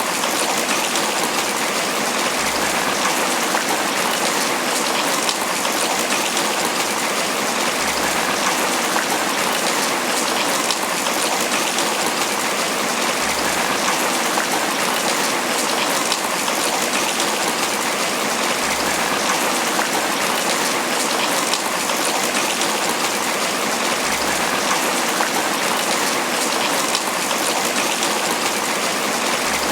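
Steady tropical rain pattering on banana leaves, a dense, even downpour that doesn't let up.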